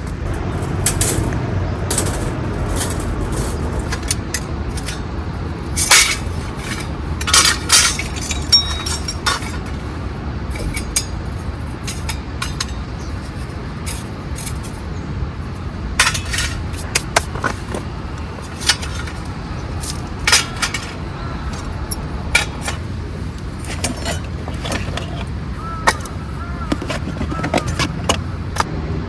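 Scattered clinks and knocks of camping gear being handled, some in quick clusters, over a steady low background rumble.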